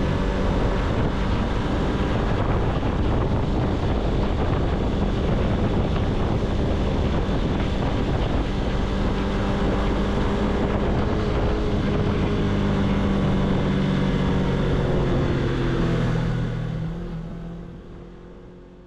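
Suzuki V-Strom 250 motorcycle engine running at a steady cruise, fading out over the last few seconds.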